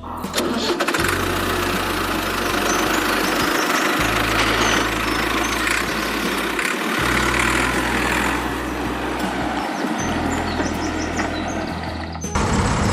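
Engine running steadily, like a tractor idling, its low hum shifting abruptly every few seconds.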